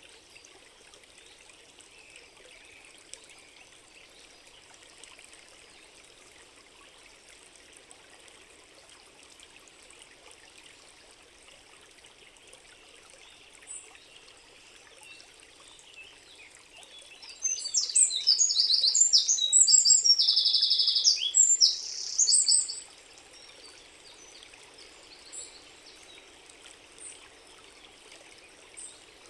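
Steady faint trickle of running water, with a small bird singing loudly for about five seconds midway: a fast run of high, chattering notes.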